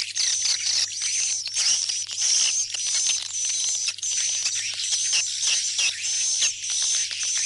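Swiftlet calls in a dense, continuous chorus of high chittering chirps, many sweeping briefly downward, repeating about twice a second. It is a 'go back home' lure call, the kind played in a swiftlet house to draw the birds in to roost and nest. A faint steady hum lies underneath.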